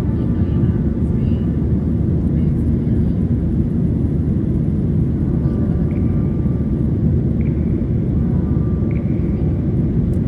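Steady rumble of a Boeing 737's jet engines and airflow heard inside the passenger cabin.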